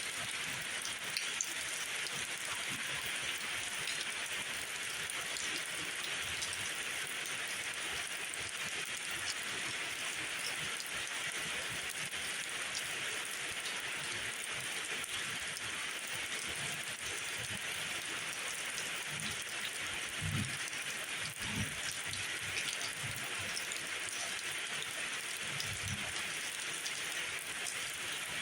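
Steady rain falling, a dense even hiss with scattered drop ticks. A few short low thuds come about two-thirds of the way through and again near the end.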